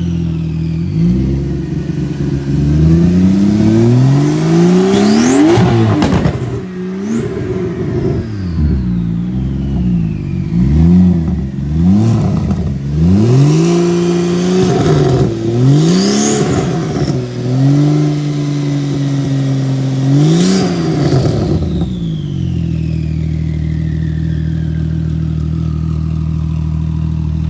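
2019 Porsche 911 GT2 RS Clubsport's twin-turbo flat-six revved repeatedly while standing: about seven blips of the throttle, each rising and dropping back, with a high whistle falling away after several of them. It then settles to a steady idle for the last few seconds.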